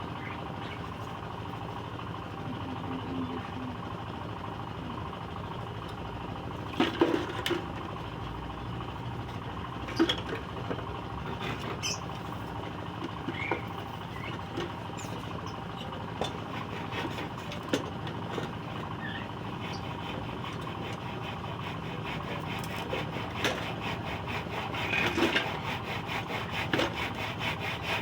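Steady background hum with a few sharp knocks of wood. Near the end a saw starts cutting wood in quick, even strokes.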